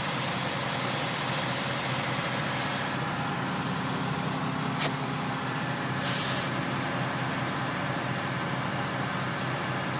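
Heavy diesel truck engine running steadily, with two hisses of released compressed air about five and six seconds in, the second longer and louder, typical of a truck's air brake system.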